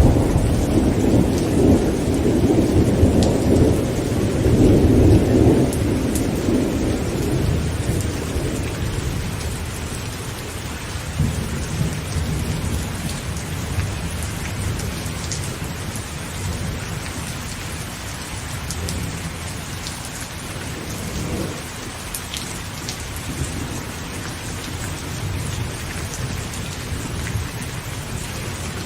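Heavy rain pattering steadily on a tent, with scattered louder drops striking the fabric. A rolling rumble of thunder is loudest at the start and fades away over the first several seconds.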